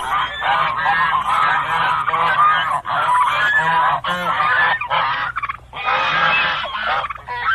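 A flock of geese honking, many short overlapping calls, played as an animal sound effect. There are brief breaks about three, four and five seconds in.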